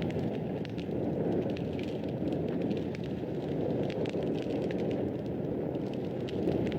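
Wood fire burning in a fireplace: a steady low rush of flame with frequent small, sharp crackles and pops scattered through it.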